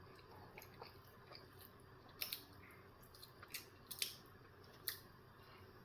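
A person chewing a breakfast sandwich close to the microphone: faint chewing with about six sharp mouth clicks and smacks, clustered between about two and five seconds in.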